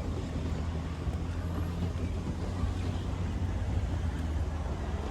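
Low, steady vehicle engine rumble with no clear change in pitch.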